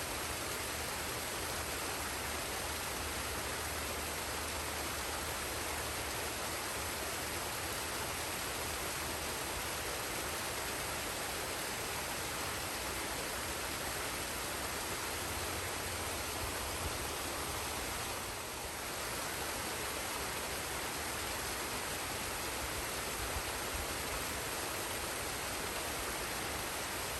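Forest waterfall and stream: a steady, unbroken rush of falling and flowing water.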